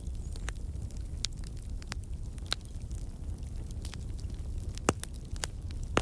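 Campfire logs crackling: sharp, irregular pops and snaps over a low steady rumble of the flames, with louder pops about five seconds in and near the end.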